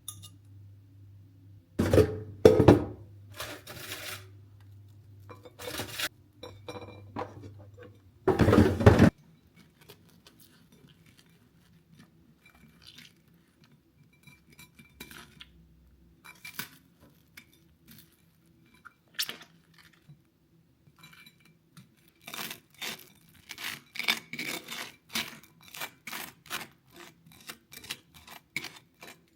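Kitchen handling sounds: dishes and utensils clinking and knocking, with a few louder knocks early on and a quick run of small clicks near the end. A low steady hum sounds underneath and stops about eight seconds in.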